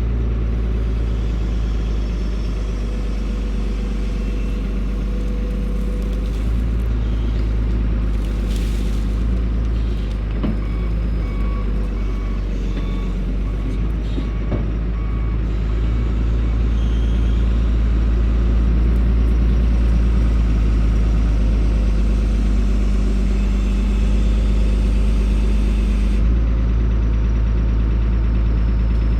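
Loader's diesel engine running steadily under load. Its reverse alarm beeps repeatedly for several seconds about a third of the way in.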